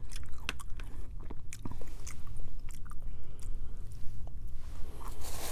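A person chewing and eating close to the microphone, with many short mouth clicks while she eats corn and country fried steak from a frozen dinner tray. A rustling noise starts near the end.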